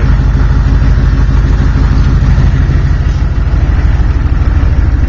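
A vehicle engine idling steadily and loudly, with an even low pulsing.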